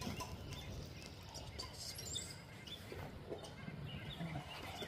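Scattered faint bird chirps over a low, steady background hum of outdoor noise.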